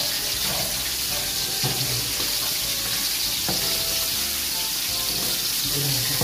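Chopped boiled pork sizzling steadily as it stir-fries in a wok, with the spatula scraping and clicking against the pan now and then.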